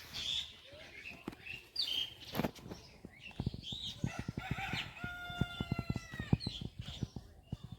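A rooster crows once about five seconds in, a held call that falls away at its end, over small birds chirping. A rapid run of soft low taps runs through the second half.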